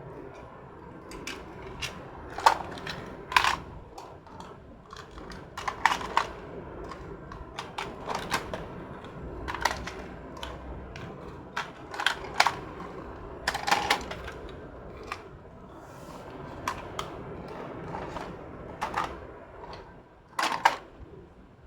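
Irregular clicks and clacks of small hard objects, with a few louder knocks, typical of miniature plastic toy cars being handled and set down.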